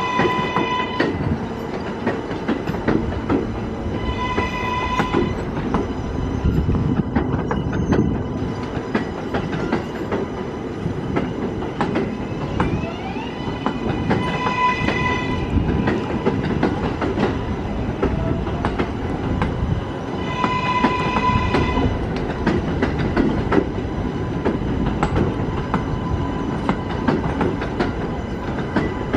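New York City subway train running through the station, its wheels clicking over rail joints. The train's horn sounds four short blasts: at the very start, about four seconds in, about fifteen seconds in, and about twenty-one seconds in.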